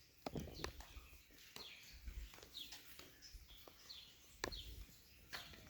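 Faint outdoor background: a bird giving short, high, falling chirps several times, with a few sharp clicks, the loudest about four and a half seconds in.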